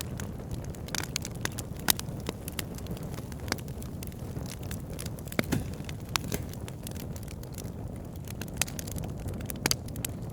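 Campfire crackling: irregular sharp pops and snaps, a few louder ones near the start and end, over a steady low rumble.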